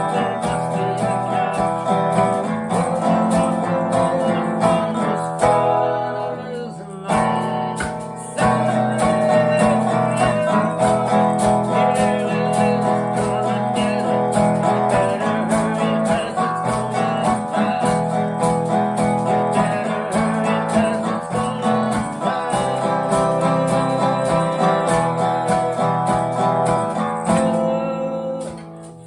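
Acoustic guitar strummed with a man singing along, briefly dropping out a couple of times around six to eight seconds in.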